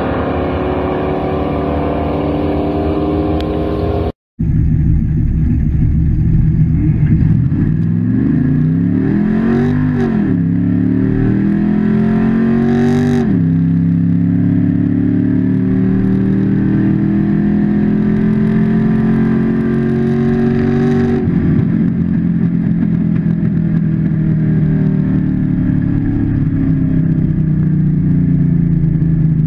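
Cammed 5.7-litre LT1 V8 of a Camaro Z28 at wide-open throttle down the drag strip. Its pitch climbs, drops back twice at the upshifts, then it lifts off about two-thirds in and coasts down. It is running on motor alone: the nitrous did not come on, which the owner puts down to a failing fuel pump.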